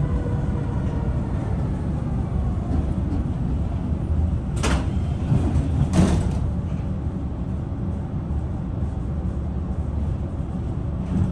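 Tram with a steady low rumble as it slows, its falling motor whine fading out in the first second. About four and a half seconds in come two sharp hissing clunks about a second and a half apart, the tram's doors working at a stop.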